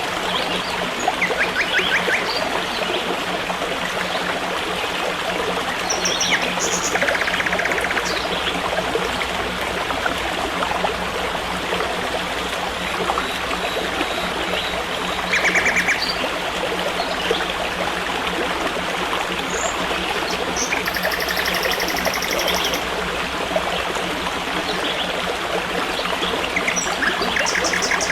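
Forest stream flowing steadily, with short chirping trills standing out above the water a handful of times.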